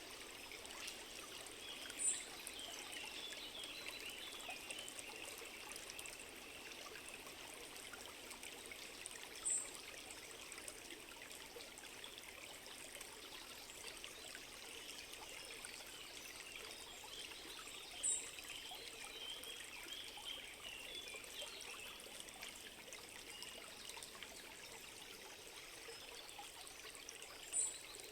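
Steady running water of a small stream. A short, high-pitched chirp stands out four times, about every eight seconds.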